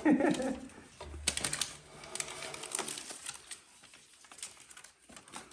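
Scattered light clicks and taps, most of them from about one to three and a half seconds in.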